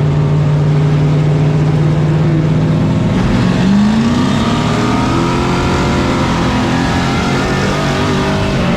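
Race truck's engine heard on board at racing speed, holding a steady pitch, then climbing in pitch about three seconds in as it accelerates.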